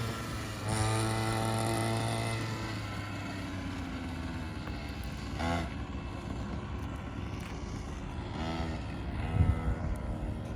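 A 50cc quad bike's small engine running as it rides around, its note steady for about two seconds and then fading, with a few brief rises in pitch later on.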